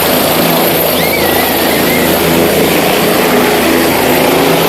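Helicopter engine and rotor running with a steady, loud drone.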